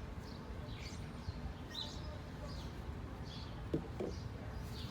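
A small bird chirping over and over, about two short falling chirps a second, over a low steady background rumble. Two short clicks come near the end.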